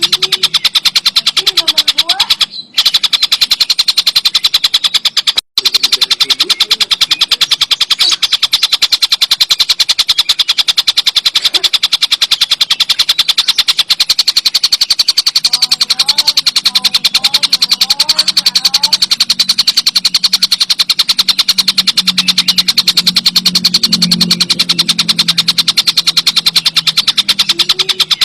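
Tengkek buto kingfisher giving a loud, very fast rattling trill that runs almost unbroken, with two brief breaks in the first few seconds.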